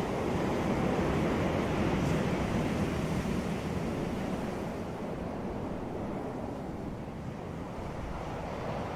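Sea surf washing onto a beach: a wave surges in over the first few seconds, then slowly ebbs away, and the next begins to build near the end.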